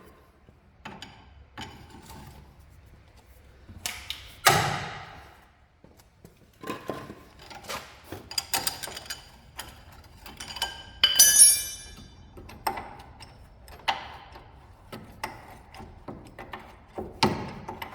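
Hand tools knocking and clinking on metal, irregular, as sockets and a breaker bar are worked on tight suspension bolts. One louder knock about four seconds in and a bright ringing metal clink around eleven seconds.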